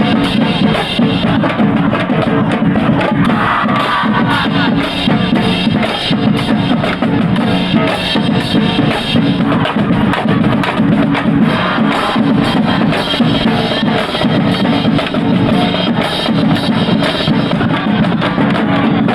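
High school marching band playing a steady, rhythmic number with the drums prominent: bass drums and snares beating under the band.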